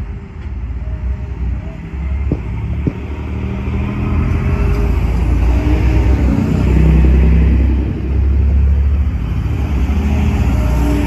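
DSB IC3 diesel multiple unit running past close by along the platform: a steady low rumble of its diesel engines and wheels, growing louder as the cars go by, with two sharp clicks a little over two seconds in.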